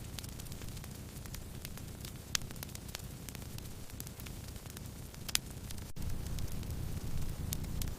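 Wood fire burning: a steady low rumble of flames with scattered sharp crackles and pops, the loudest about two and a half and five and a half seconds in, and a brief dropout just before six seconds in.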